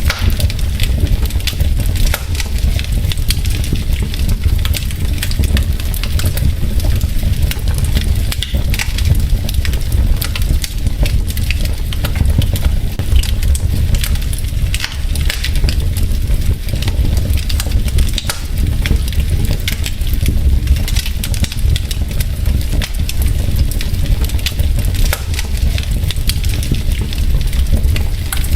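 Wood logs burning in a fireplace: a steady low rumble of the fire with frequent sharp crackles and pops.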